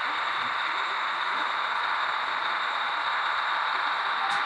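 Steady hiss with a faint high-pitched whine running through it.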